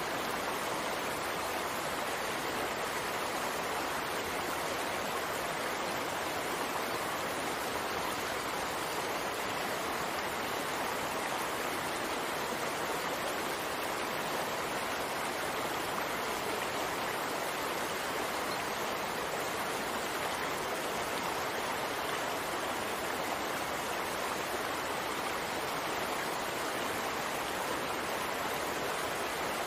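Steady, even rain with no breaks or changes in level.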